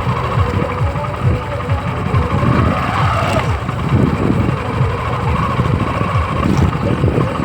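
Tractor engine running steadily, with a rapid low pulsing beat.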